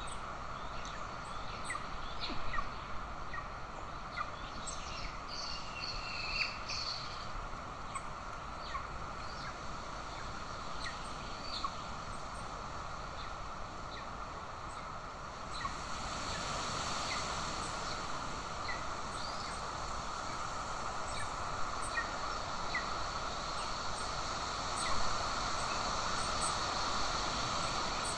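Outdoor forest ambience on a nest camera: a steady hiss with many short, faint chirps from small birds scattered throughout. The hiss gets louder and brighter about halfway through.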